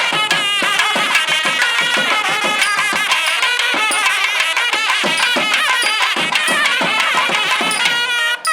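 Nadaswaram double-reed pipes playing a wavering, ornamented melody over sharp thavil drum strokes: South Indian temple music.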